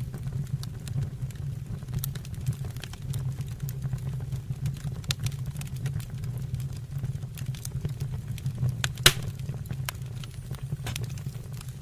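Wood fire burning, with a low steady rumble under scattered crackles and pops; the loudest snap comes about nine seconds in.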